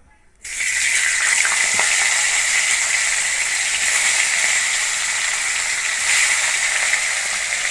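Hilsa fish pieces frying in hot oil in a kadai: a sizzle that starts suddenly about half a second in as the fish goes into the oil, then holds as a steady loud hiss.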